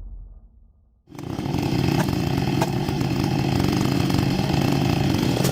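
Chainsaw engine running steadily under throttle, starting abruptly about a second in after a moment of near silence.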